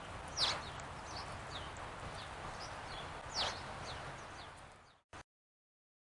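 Small songbirds calling at a feeder: two loud, sharp calls sweeping down in pitch about three seconds apart, with fainter short high chips in between, over steady outdoor background noise. The sound cuts off about five seconds in.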